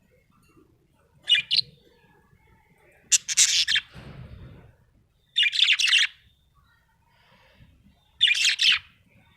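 Budgerigar chirping in four short, high bursts a couple of seconds apart.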